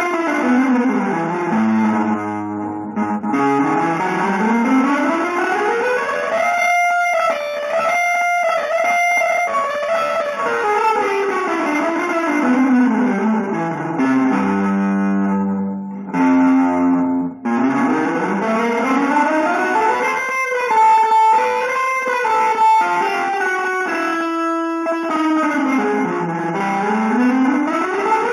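Electric guitar playing fast, continuous runs of notes that climb and fall in long sweeps, with a few short passages of repeated notes in between.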